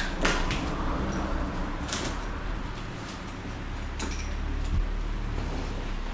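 Handling noises: a few sharp clicks and knocks over a low steady background, as fishing gear is handled.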